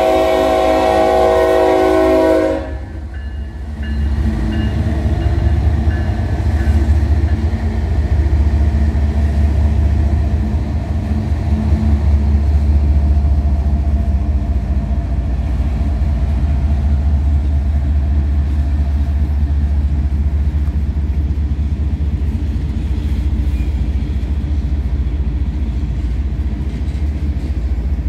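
Lead locomotive's air horn sounding a multi-tone chord, cutting off about two and a half seconds in. Then the CSX GE Evolution-series diesel locomotives (ES44AH and ES40DC) run past with a deep, steady engine rumble, followed by freight cars rolling over the rails.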